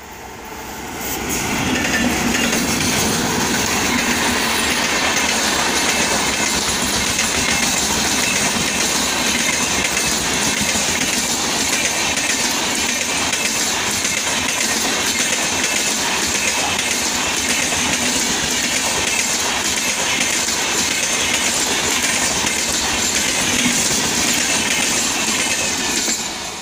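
An Indian Railways express of LHB coaches, hauled by a WAP7 electric locomotive, passing close at high speed: a steady rush and rumble of wheels on rail with clickety-clack over the rail joints. It swells over the first two seconds as the locomotive arrives and dies away near the end as the rear power car goes by.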